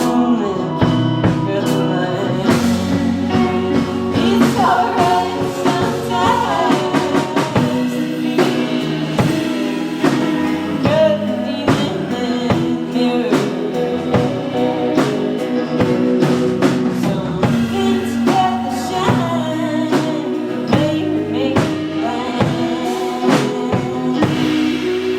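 Live band playing loud, with singing over drum kit and amplified instruments; no words come through clearly.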